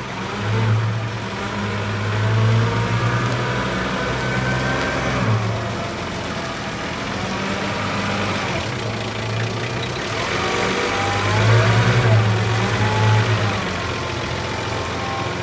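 Nissan 45 truck's engine running, working harder and louder twice: from about half a second to five seconds in, and again around eleven to thirteen seconds, with a wavering higher whine over it.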